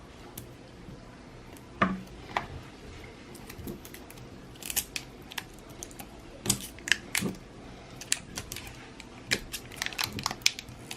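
LOL Surprise ball packaging being unwrapped by hand: irregular crinkles, crackles and sharp clicks of plastic wrap and plastic pieces, busier in the second half.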